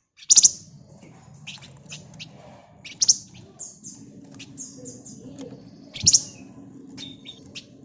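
Javan fulvetta (flamboyan, wergan Jawa) calling: three loud, harsh, rattling bursts about three seconds apart, with shorter chirps and whistled notes between them.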